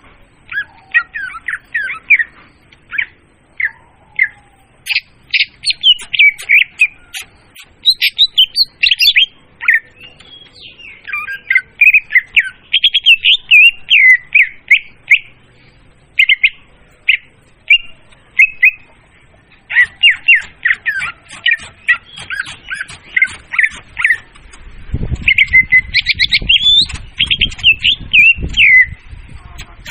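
Leafbird (murai daun) song, a loud, clear lure recording: rapid, varied runs of chirps and short whistles in bursts broken by brief pauses. A low rumble sits under the song for a few seconds near the end.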